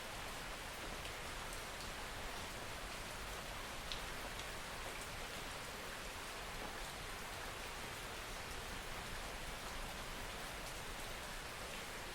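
Steady soft rainfall, an even hiss with faint scattered drop ticks.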